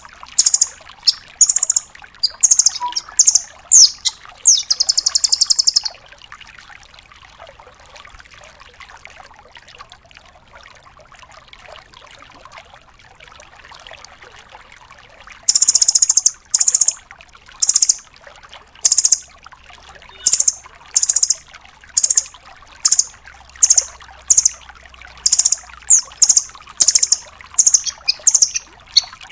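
Velvet-fronted nuthatch (rambatan doraemon) calling: loud, sharp, high-pitched notes repeated about twice a second, with a quick rattling trill about five seconds in. It falls silent for about nine seconds, then resumes the same repeated notes and keeps them up to the end.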